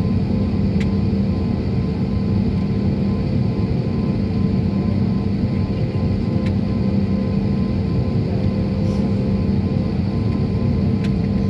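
Steady drone of an airliner's jet engines heard from inside the cabin, a low rumble with a constant hum and no change in pitch.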